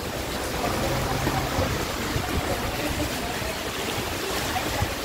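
Steady rushing noise of rain falling, with a low rumble underneath.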